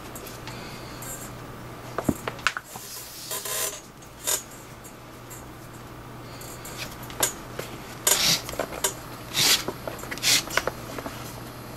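Leather lace being worked through the lacing of a catcher's mitt by hand: short rasping pulls of lace through leather, with scattered clicks and taps of handling. The pulls come in two clusters, about two seconds in and again from about eight seconds.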